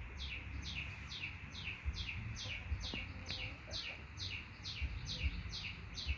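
A bird calling over and over: a short falling chirp repeated evenly about two and a half times a second, over a low background rumble.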